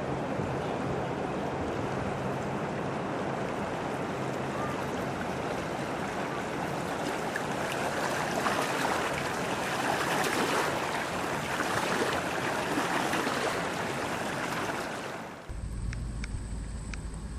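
Waves washing onto a beach, with wind on the microphone, a steady rushing noise. About fifteen seconds in it cuts off abruptly and gives way to a steady low rumble.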